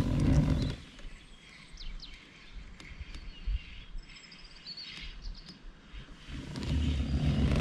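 Small birds chirping faintly, short high calls and sliding whistles. A low rumbling noise runs under them for the first second and comes back about six seconds in.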